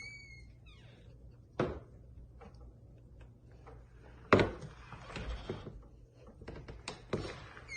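A few knocks and thumps, the loudest about four seconds in, with a brief high squeak right at the start.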